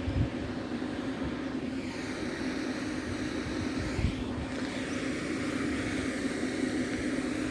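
A road vehicle passing by, heard over a steady low hum, with two dull thumps, one near the start and one about four seconds in.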